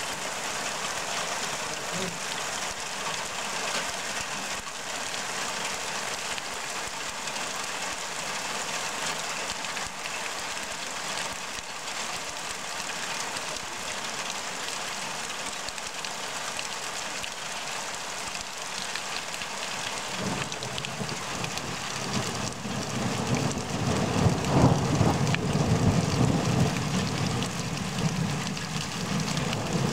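Heavy rain falling steadily on bare, muddy ground. About two-thirds of the way through, a low rumble swells up, is loudest for a few seconds, then eases off.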